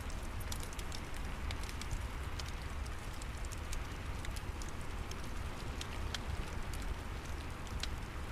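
Steady rain hiss with a low rumble underneath, and a wood fire in a fireplace crackling over it in irregular sharp pops.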